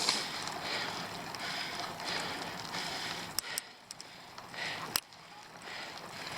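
A cyclist's hard, rhythmic breathing, about one breath every two-thirds of a second, during a long, steep uphill climb, with a few sharp clicks in the middle.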